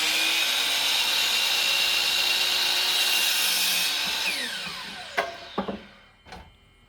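Electric power saw running steadily as it cuts through a board. About four seconds in it is switched off and its whine falls as the blade spins down, followed by a few sharp knocks.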